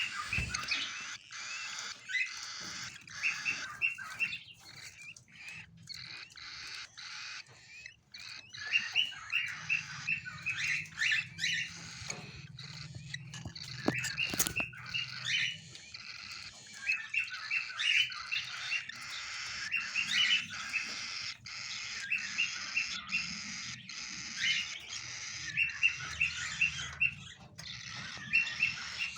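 Cockatiels chirping in rapid runs of short, high chirps that come in bursts and pauses.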